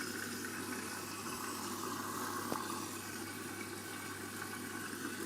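Candy washing machine filling for its main wash: a steady rush of water running in through the detergent drawer and flushing the washing powder into the drum, over a low steady hum.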